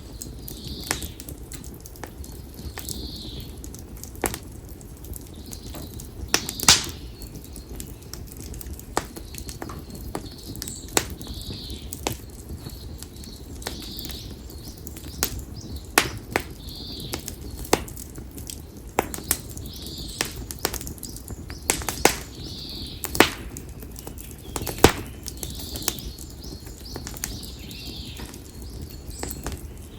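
Konara oak firewood burning in an open fire, crackling with irregular sharp pops over a low steady rush of flame. A bird calls short high notes over and over, about every second or two.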